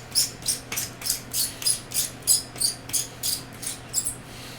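Pencil sharpener grinding a pencil in rhythmic scraping strokes, about three a second, over a steady low hum.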